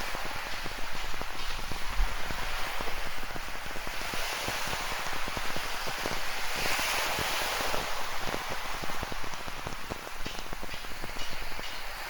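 Steady rain falling, with a dense scatter of close drop hits, over the wash of ocean surf that swells about halfway through.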